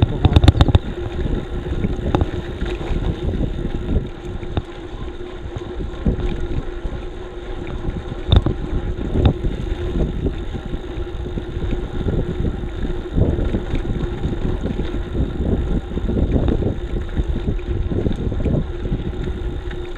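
Wind buffeting an action camera's microphone on a moving bicycle, over steady rumbling road noise, with a few sharp knocks, one near the start and one about eight seconds in.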